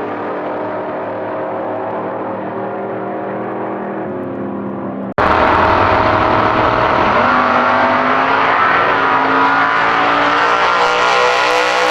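Drag-racing V8 engine running with a steady, slightly falling note. After an abrupt cut about five seconds in, it is much louder under hard throttle, its note climbing.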